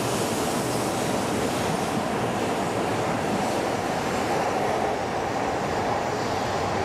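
E6-series Akita shinkansen moving along a station platform, a steady, even running noise from the train.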